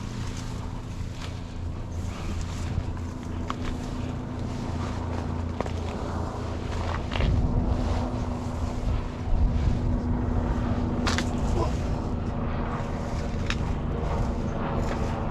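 Wind rumbling on the microphone, with a faint steady hum and scattered short clicks and rustles.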